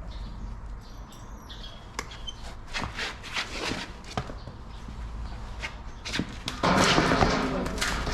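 Horse's hoof being trimmed: scattered sharp cutting and clicking sounds, then a loud continuous scraping that starts near the end.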